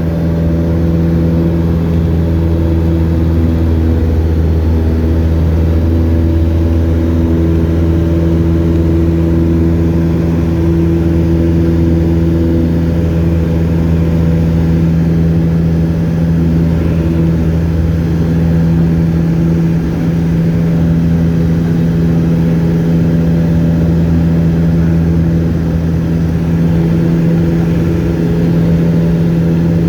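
Light aircraft's piston engine and propeller, a loud, steady drone with an unchanging pitch, as in level flight.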